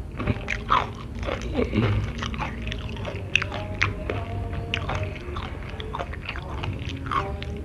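Close-up chewing of crispy flour-battered fried chicken: repeated crunches and wet mouth sounds as the breading and meat are chewed.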